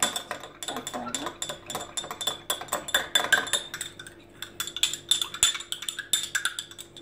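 Spoon stirring a mixture of glue and water in a bowl, clinking rapidly and unevenly against the sides as the glue is mixed up for slime.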